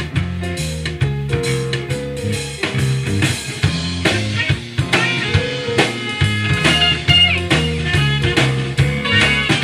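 Rock music with guitar, bass and drum kit, a steady beat and shifting bass line.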